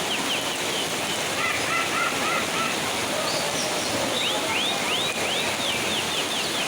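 Steady rain hiss with caged songbirds singing over it: a run of quick sweeping notes at the start and again from about four and a half seconds in, and a few short chirps around two seconds in.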